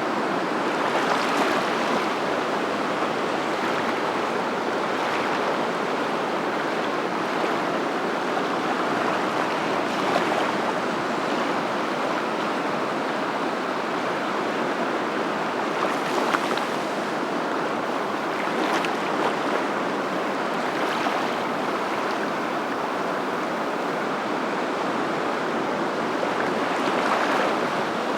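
Steady rushing water, even and unbroken, with brief louder moments now and then.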